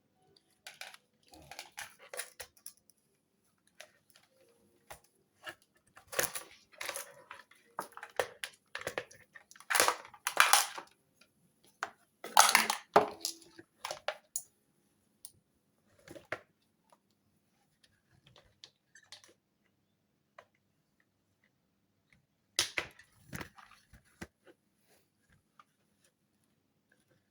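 Irregular bursts of clicking, rustling and crinkling from hands handling small parts and wiring, loudest in a busy stretch around the middle, with quiet gaps between.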